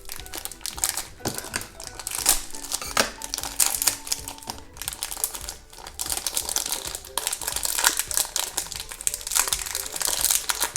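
A small plastic blind-bag toy packet crinkling as it is torn open and handled, with irregular crackles throughout. Faint background music underneath.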